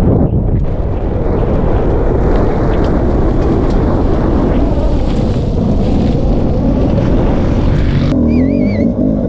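Dirt bike engine running hard with heavy rumble and wind on the microphone. About eight seconds in the sound changes abruptly, and an engine note wavers quickly up and down as the throttle is worked.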